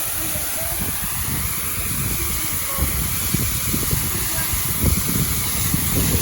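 Steady rushing hiss of a waterfall, with wind buffeting the microphone in irregular low gusts that grow stronger in the second half.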